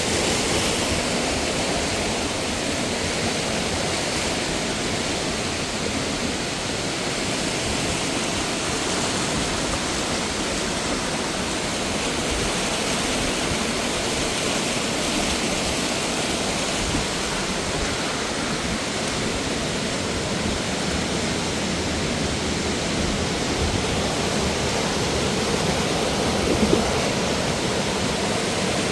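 Steady, even rush of cascading mountain water.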